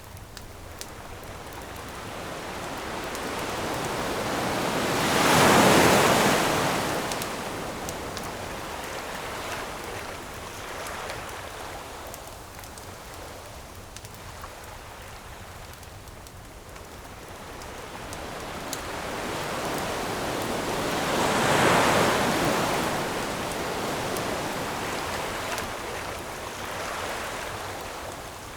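Ocean waves breaking on the shore: two slow surges, each swelling over several seconds and washing away, about sixteen seconds apart, over a steady wash of surf. A few faint crackles of a campfire come through.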